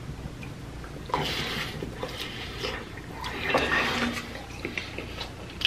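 Close-miked chewing of a bite of crispy fried chicken wing dipped in sauce: irregular wet, smacking mouth sounds with a few crunchy bursts.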